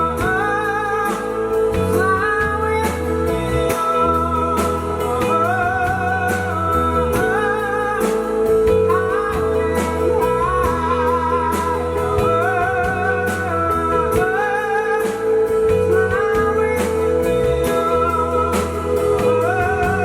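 Rock band playing: a singer's drawn-out melody over guitar, bass and a steady drum beat.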